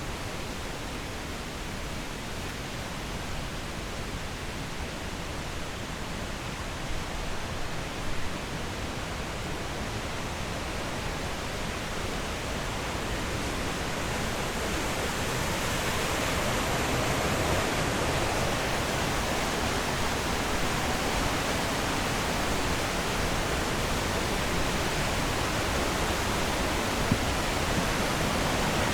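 Rushing water, a steady even rush of noise that grows louder about halfway through.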